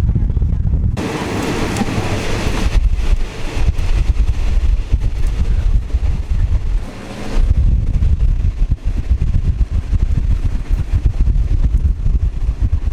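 Passenger train carriage running along the track: a steady low rumble with wind buffeting the microphone. A louder rush of noise comes in about a second in and lasts under two seconds.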